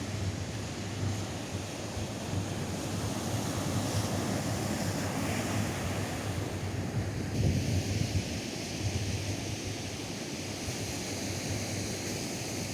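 Atlantic surf washing steadily onto a sandy beach, with wind gusting across the microphone.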